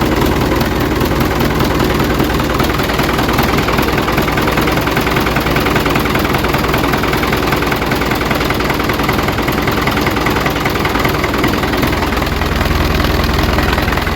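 An engine running steadily at idle, with a fast, even pulsing, like a tractor's engine.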